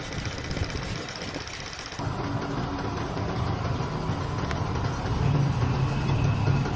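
A motor running steadily with a low hum, getting louder about two seconds in.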